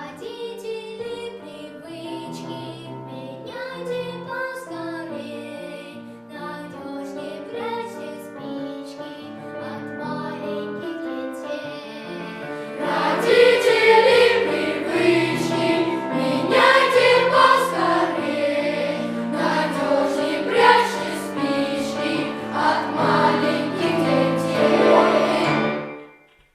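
Boys' choir singing with piano accompaniment, growing much louder about halfway through and ending with a final chord about a second before the close.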